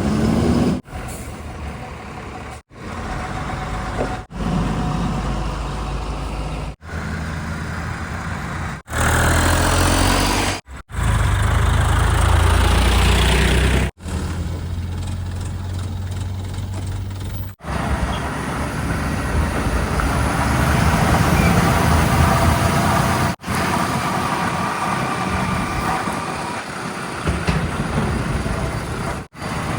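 Diesel engines of heavy vehicles (trucks, tractors, a backhoe loader) running, heard in a string of short clips that cut off abruptly every few seconds. The loudest part is a deep engine rumble in the middle.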